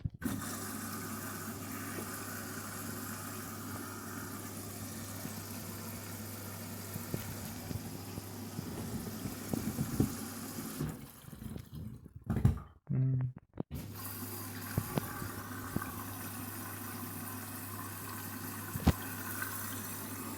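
Candy Grand'O Vita washing machine taking in water at the start of a synthetics wash: a steady rush of water filling the drum over a low hum. The sound drops out briefly about two-thirds of the way through, with a few low knocks, then the filling carries on.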